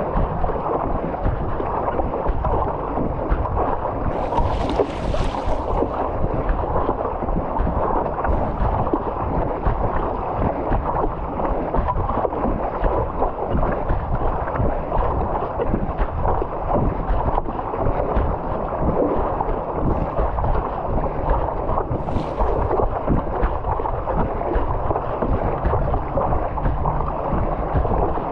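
Wind buffeting the microphone, mixed with water sloshing around a stand-up paddleboard out on the sea. A brief higher hiss comes about four seconds in and another shorter one later.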